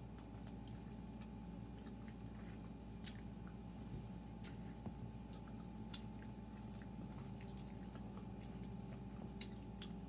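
People chewing pizza close to the microphone: soft, irregular wet mouth clicks and smacks, over a faint steady electrical hum.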